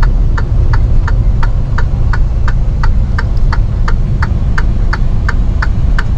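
Inside a semi-truck's cab: steady low engine and road rumble, with an indicator ticking evenly at about three ticks a second.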